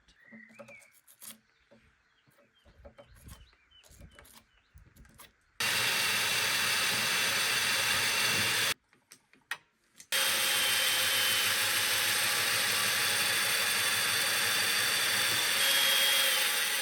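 A power tool cutting into timber. It starts about five seconds in, stops after three seconds, and starts again a second and a half later, running steadily for the rest.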